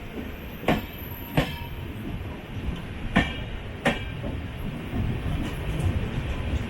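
LHB passenger coach running on the rails: a steady low rumble, with sharp clacks of the wheels over rail joints in two quick pairs about two and a half seconds apart.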